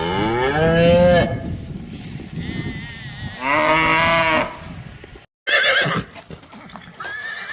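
Farm animal calls: two long drawn-out calls, each rising then falling in pitch, a couple of seconds apart. After a sudden break, shorter, higher, quavering calls follow, like the start of a horse whinnying.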